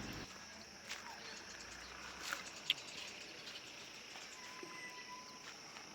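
Outdoor ambience of insects: a steady, faint, high buzz, with a few light clicks and a short held high note about four and a half seconds in.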